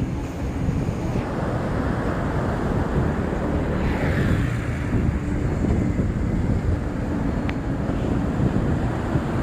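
Wind buffeting the microphone in a low rumble over the wash of surf, with the hiss of the sea swelling about four seconds in.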